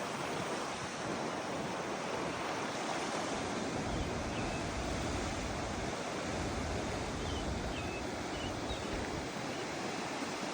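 Strong wind rushing steadily outdoors and buffeting the microphone, with heavier low rumbling gusts in the middle. A few faint, short high chirps are heard in the middle.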